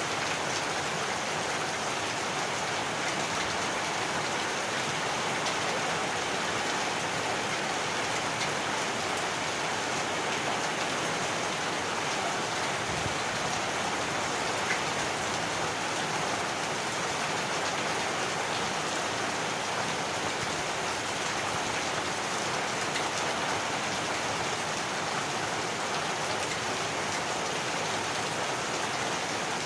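Heavy rain falling steadily: an even, unbroken hiss of countless drops at a constant level.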